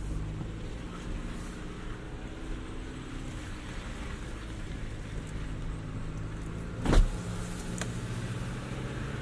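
Jeep Renegade engine running steadily at a low, even pitch, with one sharp knock about seven seconds in.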